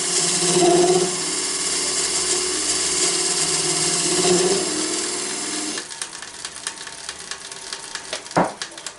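Wood lathe running while a cutting tool cuts into the spinning wood, hollowing out a box, with a steady hum and hiss. The cutting stops about six seconds in. Light clicks and one sharp knock follow near the end.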